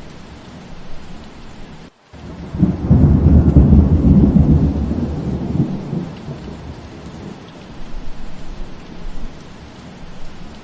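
Steady rain hiss with a loud low rumble of thunder starting about two and a half seconds in and fading over the next few seconds. The sound drops out briefly, to near silence, just before the thunder.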